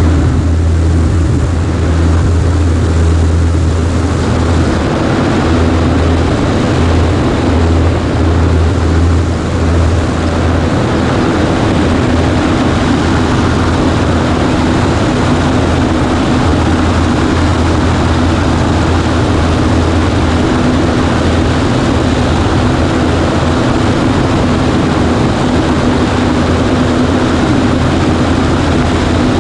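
Cessna 140A light aircraft engine and propeller droning steadily in flight, its deepest hum easing about ten seconds in.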